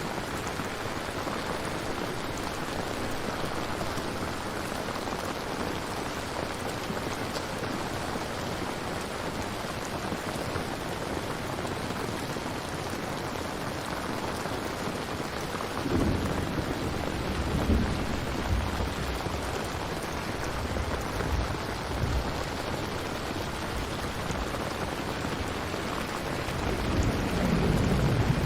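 Steady heavy rain. Just past halfway, thunder rolls in as a low rumble with a few louder cracks, and another roll of thunder builds near the end.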